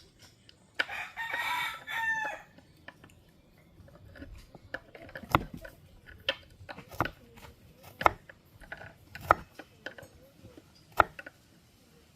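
A rooster crows once, a call of about a second and a half that falls in pitch at the end. Then come sharp, irregular knocks of a knife chopping food on a cutting board, about one a second.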